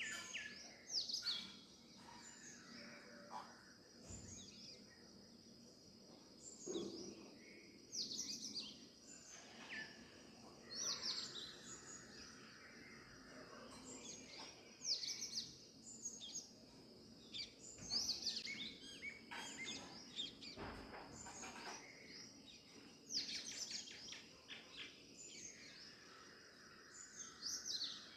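Wild songbirds calling: short, high chirps that sweep downward, given singly or in quick runs every second or two, over a steady high-pitched whine.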